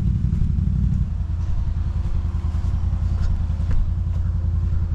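ATV engine idling with a low, pulsing exhaust note, its sound shifting about a second in and then holding steady.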